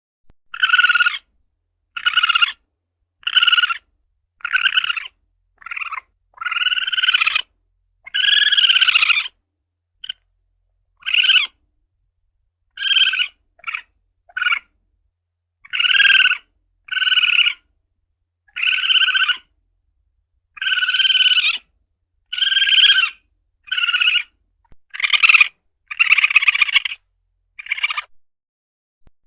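Asian palm civet (luwak) calls: a long series of short calls, each a quarter to about one second long, repeated roughly once a second with clean silence between them, the lure-call recording used to attract civets.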